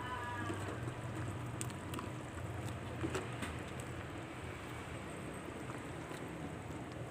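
A pot of lodeh, vegetables in coconut milk, simmering: a steady bubbling hiss with scattered small pops over a low hum.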